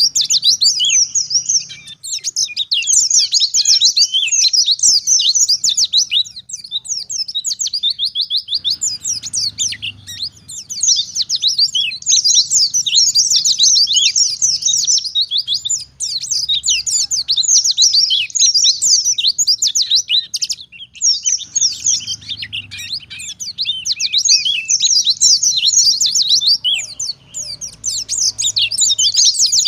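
White-eye (pleci) singing a long, fast run of high chirps and trills, with only a few brief breaks.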